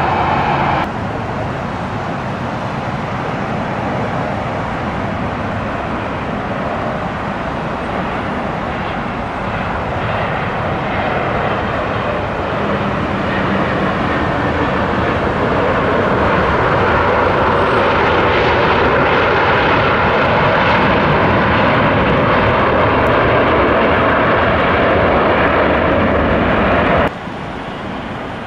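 Airliner engines heard from the airfield edge: a steady rushing engine noise that grows louder about halfway through, with a faint falling whine. The sound changes abruptly just after the start and cuts off about a second before the end, as at edits between clips.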